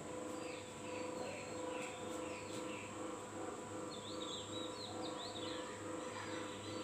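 Small birds chirping in short bursts, over a steady background hum that pulses about twice a second.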